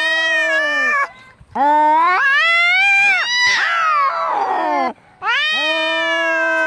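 Angry domestic cat yowling, the drawn-out caterwaul of a cat fight: three long, wavering wails separated by two short breaks. The middle wail turns rough and raspy as it falls away.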